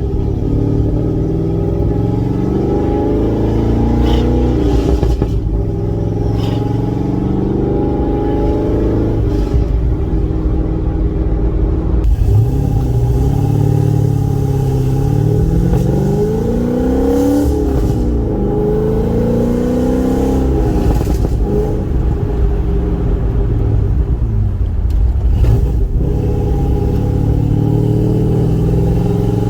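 Car engine and exhaust while driving, heard from the car; the engine note climbs as it accelerates past the middle, drops back, climbs again and falls away, then settles to a steady cruise.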